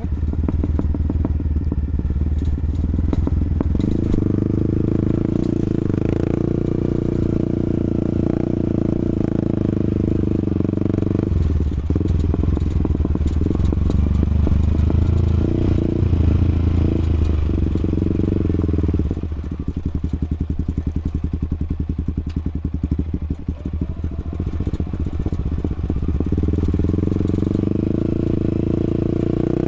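Yamaha XSR155's single-cylinder engine running while riding, its note steady between a few changes in throttle or gear.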